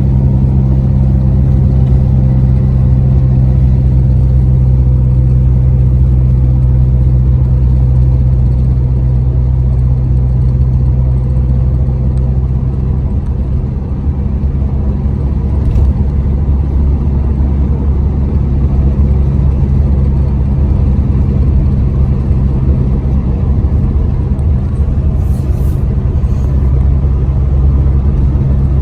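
Truck running down the road: a steady, loud low engine drone with road rumble. Its tone shifts about thirteen seconds in, as the engine speed changes.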